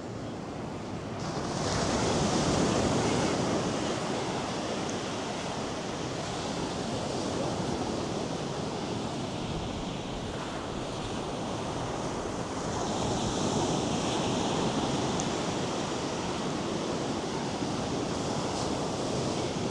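North Sea surf breaking and washing up a sandy beach: a steady rush of waves that swells louder about two seconds in and again around thirteen seconds.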